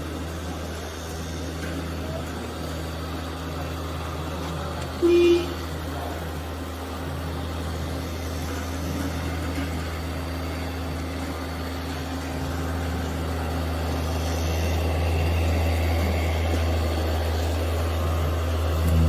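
A vehicle engine runs steadily at a low drone and grows louder toward the end, with one short, loud beep about five seconds in.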